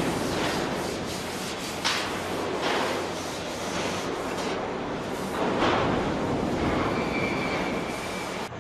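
Steady road and wind noise from a car driving at speed, with several brief whooshes.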